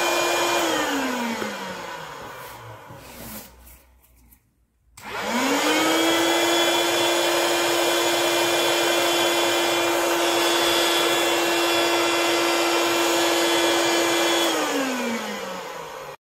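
Battery-powered portable electric air pump running with a steady motor whine. It is switched off and spins down with falling pitch, then starts again about five seconds in, quickly rises to full speed, runs steadily, and spins down again near the end.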